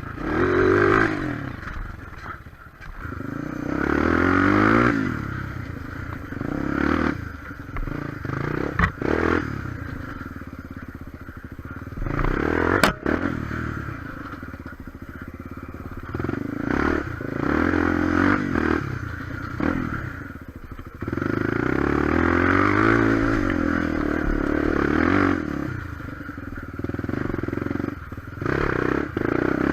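Single-cylinder four-stroke trail bike engine running under load, its pitch rising and falling again and again as the throttle is opened and closed over rough, slippery ground. A couple of sharp knocks come about nine and thirteen seconds in.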